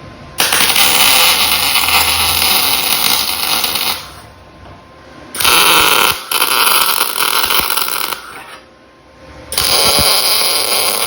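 Welding arc crackling as tack welds are laid on a 16- and 18-gauge sheet steel box, in three bursts of a few seconds each with short pauses between.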